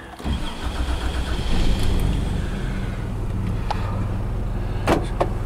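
The 1989 Toyota Land Cruiser's six-cylinder petrol engine starting, heard inside the cabin: it cranks and catches, the revs rise over the first couple of seconds, then it settles to a steady idle. A sharp click comes near the end.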